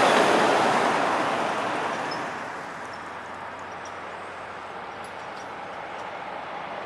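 A truck passing and moving away, its road and engine noise fading over about three seconds into a steady background traffic rumble.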